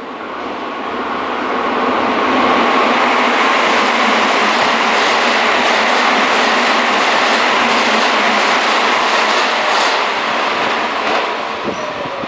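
Keisei electric commuter train passing through a station at speed without stopping. Its running noise swells over the first two seconds, holds, and fades near the end, with the wheels clacking over rail joints as the cars go by.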